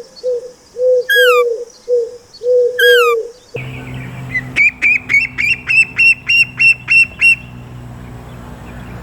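Bird calls in two recordings. First a string of short, clear low calls with a few falling whistles. Then, after an abrupt change, a steady low hum under a quick run of high chirps, about four a second.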